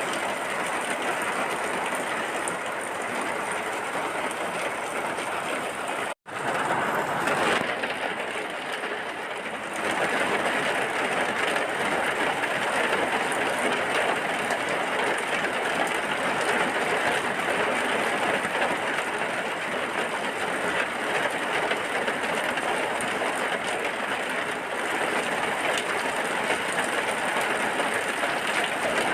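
Steady, dense rainfall hissing without a break, cut off by a split-second dropout about six seconds in and slightly louder from about ten seconds on.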